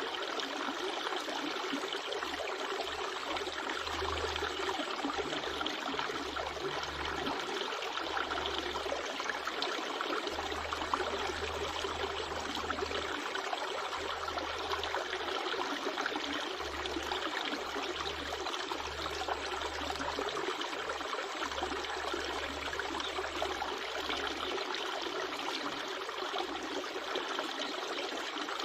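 River water flowing and trickling steadily, with a low hum that comes and goes underneath.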